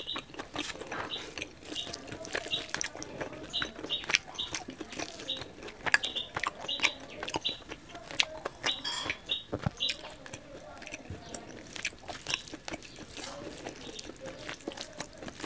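Close-miked chewing and wet mouth sounds while eating curry and rice, with fingers squishing and mixing rice on a steel plate; many small sharp clicks. Short high chirps recur irregularly in the background.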